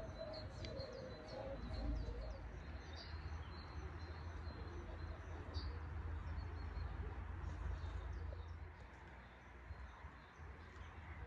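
Small birds chirping, with many short high calls scattered throughout, over a steady low rumble that eases off near the end.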